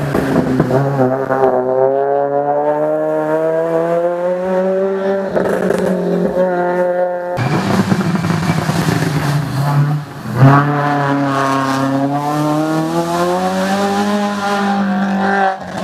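Race car engine under hard acceleration, its pitch climbing steadily. After a sudden cut about seven seconds in, another run follows the same way. About ten seconds in there is a brief drop and a sharp loud burst.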